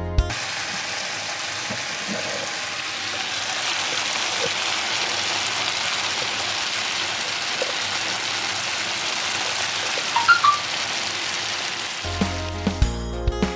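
Pork, bamboo shoots and greens sizzling in a hot wok, a steady hiss of frying, with a few light clicks about ten seconds in.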